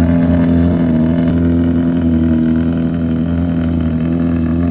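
A car engine running steadily at an even speed with a loud, unchanging hum.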